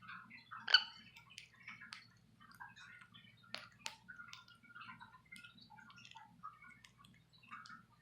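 Budgies cracking and nibbling seed treats with their beaks: a run of small, irregular clicks, mixed with soft chirps and one short, louder chirp about a second in.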